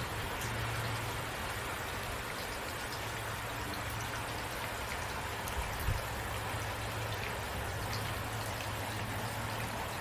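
Steady rain falling, with scattered drops ticking over an even hiss and a low steady rumble underneath. There is a soft low thump about six seconds in.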